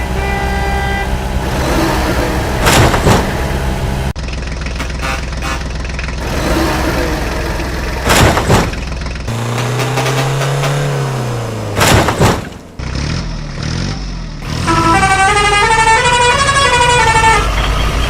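Engines of miniature construction machines running, with horn-like tones, in several abruptly cut segments. Around the middle a tone rises and falls, and near the end a stepping run of high tones plays.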